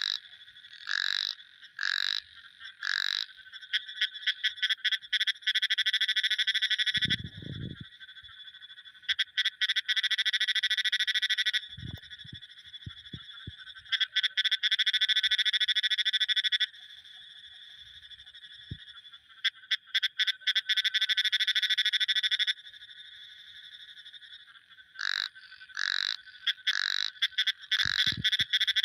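Frogs calling: single short croaks about once a second give way to long, rapid pulsing trills in bouts of about three seconds, then single croaks again near the end.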